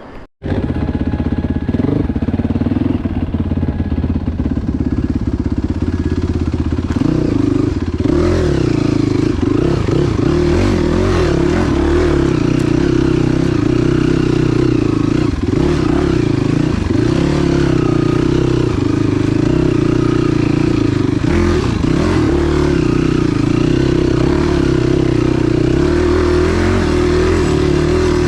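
Enduro motorcycle engine running under throttle, its pitch rising and dipping repeatedly as it is revved. It cuts in suddenly just after the start.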